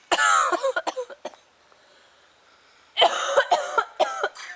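A woman with a cold coughing in two fits of short, harsh coughs, the second starting about three seconds in.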